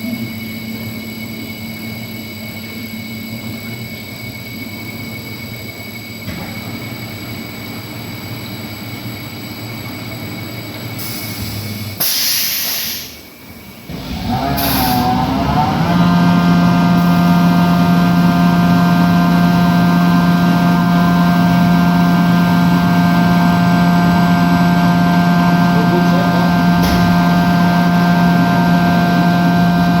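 Membrane filter backwash system running: a steady machine hum, then about twelve seconds in a short burst of hiss and a brief drop. About two seconds later the backwash air starts up and runs loud and steady with a strong hum, blowing air backwards through the membranes to shake them clean.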